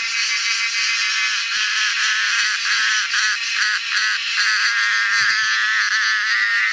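Cicadas singing: a loud, continuous high-pitched buzz that briefly pulses about midway.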